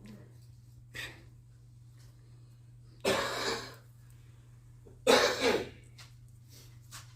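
Two loud coughs about two seconds apart, with a smaller one before them, over a steady low hum.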